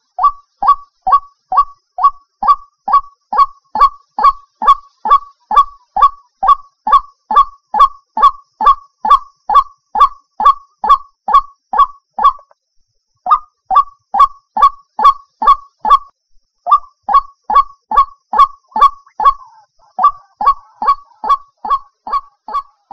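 White-breasted waterhen (ruak-ruak) calling, a fast monotonous series of short 'kwak' notes about two and a half a second, pausing briefly twice, about halfway through and again a few seconds later. It is the call played as a lure to draw the birds in.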